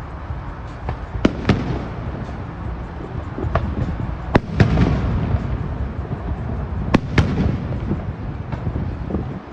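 Aerial fireworks bursting: a string of sharp bangs, several coming in quick pairs, over a continuous low rumble of earlier shells echoing.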